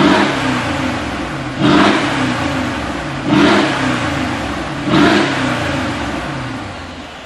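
Mercedes G63 Brabus twin-turbo V8 revved through its exhaust in four quick throttle blips about a second and a half apart, each rising sharply and falling back, the engine settling and fading near the end.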